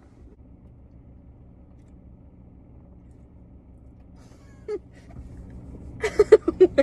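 A car engine idling steadily, heard from inside the cabin as a low, quiet hum. Near the end, loud voices break in.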